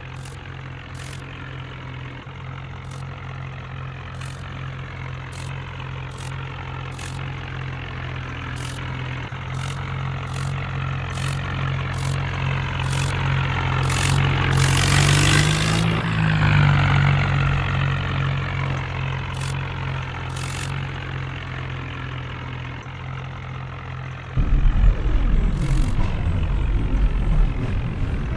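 Heavy vehicle engines running at idle. About halfway through, one draws close and passes, its pitch bending as it goes by. Near the end a louder, deeper engine suddenly starts running.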